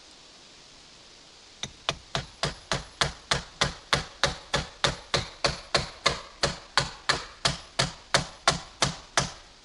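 A hammer striking wood in a fast, even series of about three to four blows a second, starting about a second and a half in and stopping shortly before the end. This is typical of nailing during the building of a log terrace.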